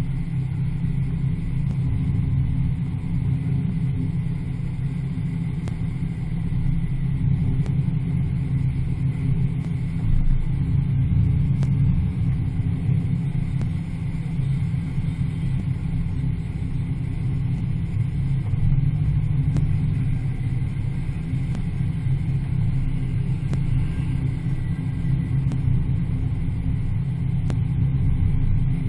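Muscle car engine running steadily at a parade pace, a low, even engine sound picked up from a camera mounted on the car's hood.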